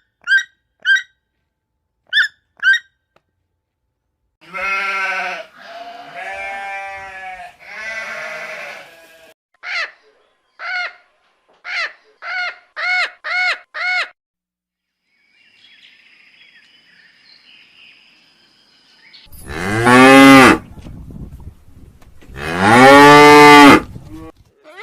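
A series of animal calls: a few short high chirps, three longer calls, and a quick run of short calls. Near the end come two long, loud cow moos, each falling in pitch.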